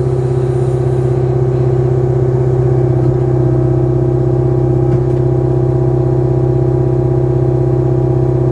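Kubota KX057-4 excavator's diesel engine running steadily while its auxiliary hydraulics work a log splitter attachment, with a slight shift in the engine note about three seconds in.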